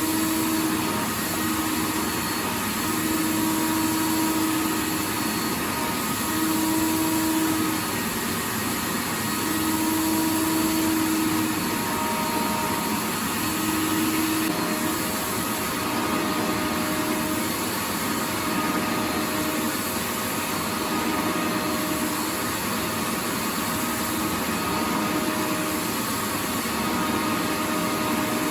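Vacuum cleaner running continuously: a steady rushing motor noise with a faint whine, and a lower hum that fades in and out every few seconds.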